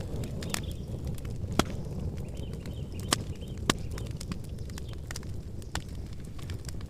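Campfire burning and crackling: a steady low rumble of the flames with scattered sharp pops and snaps, a few louder pops standing out.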